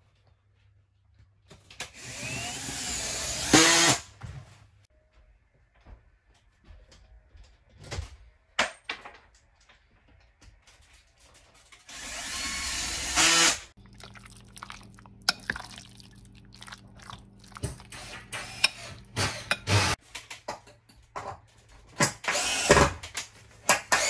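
Power drill running in two bursts of about two seconds each, one near the start and one about halfway through, with scattered knocks and clicks in between.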